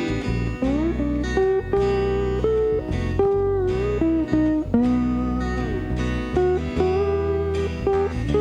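Instrumental break in a band's song: a lead guitar plays a melody with gliding, bent notes over strummed guitar and a steady bass.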